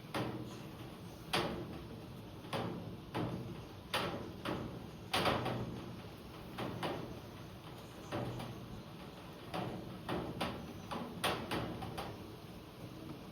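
Rain falling outside a window, with heavy drops tapping irregularly, about one or two sharp taps a second, over a steady rain hiss.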